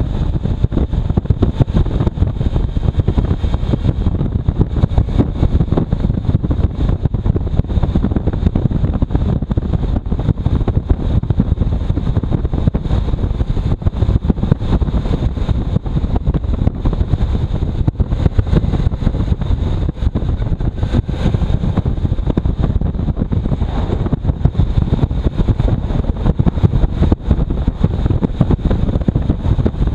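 Wind buffeting the microphone on a moving motorcycle, a dense fluttering rumble over engine and road noise.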